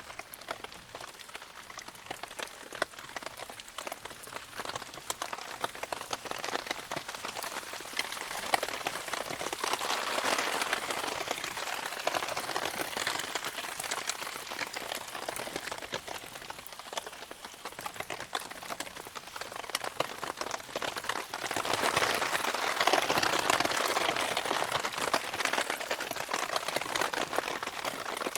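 Rain pattering steadily, with many fine ticks of drops. It swells louder twice, about ten seconds in and again a little past twenty seconds.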